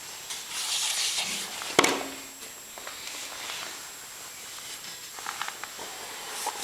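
Scraping, rubbing strokes of a painting tool on canvas, with one sharp knock a little under two seconds in and a few light clicks near the end.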